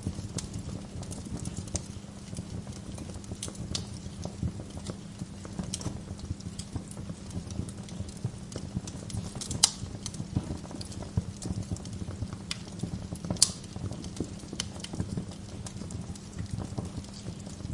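Wood fire in a fireplace crackling: a steady low rumble of flames under a constant run of small crackles, with two louder sharp pops about ten and thirteen seconds in.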